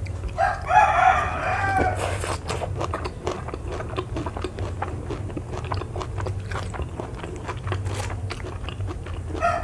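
Crunchy biting and chewing of raw vegetables: a run of crisp, irregular crunches. A rooster crows once for over a second about half a second in.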